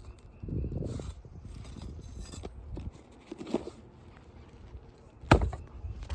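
Hand tools working on roof shingles and nails: irregular scraping and knocking, with one sharp, loud strike about five seconds in.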